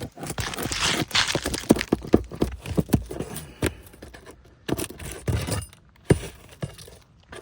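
Scraping, crackling and sharp clicks of asphalt shingles being worked loose and pried up to reach their nails, busiest in the first few seconds and sparser after.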